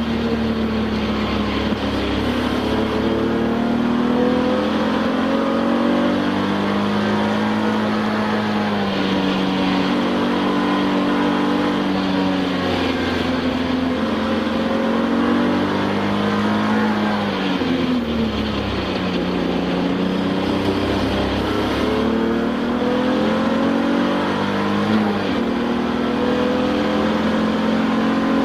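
Touring race car's engine heard from inside the car at racing speed: the pitch climbs slowly under load, then drops sharply a few times as the driver lifts and downshifts for corners before climbing again.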